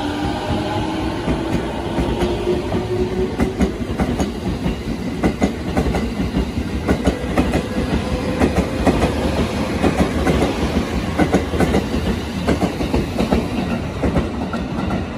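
209 series 500-subseries electric commuter train pulling away: its motor whine rises in pitch over the first few seconds, then the wheels click over the rail joints ever faster as the cars roll past.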